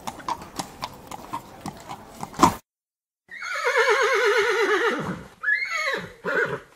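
A run of horse hoof clip-clops with a louder knock at the end. After a short pause a horse whinnies: one long, wavering call that falls in pitch, then two short calls near the end.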